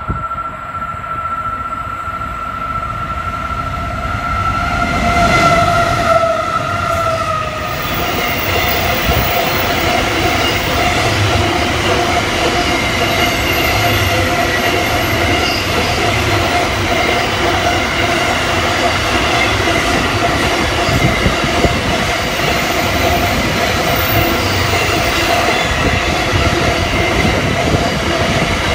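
Container freight train passing close by: a steady high whine from its approaching locomotives dips in pitch and cuts off as they go past, about seven seconds in. The container wagons then roll by in a loud, steady rumble of wheels on rail with a constant high wheel squeal.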